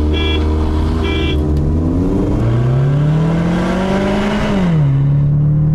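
Ford Mustang engine heard from inside the cabin at the start of a drag race. It holds steady revs under two short electronic beeps a second apart, then accelerates with the revs climbing for about two and a half seconds. The revs fall sharply at a gear change near the end.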